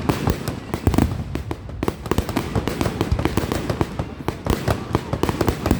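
Fireworks going off in a dense, rapid barrage of bangs and crackles, many reports a second with no let-up.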